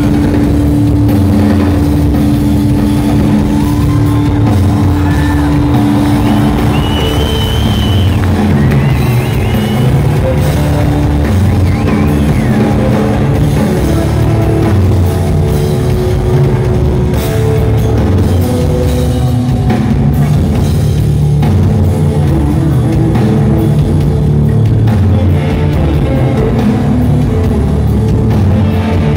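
Live rock band playing loud and steady without vocals: heavy distorted guitars, bass and drum kit.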